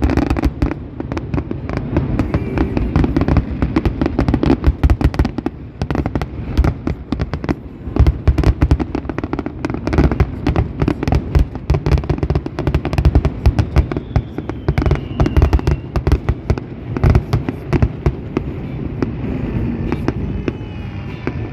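Fireworks finale: a dense, unbroken barrage of bangs and crackling pops, many a second, over a low booming rumble.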